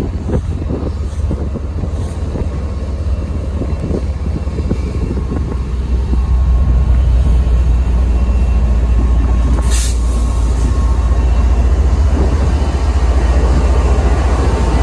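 MBTA commuter train led by an HSP46 diesel locomotive approaching and passing close by, its rumble growing louder as it comes near, with wind buffeting the microphone. A brief sharp hiss about ten seconds in.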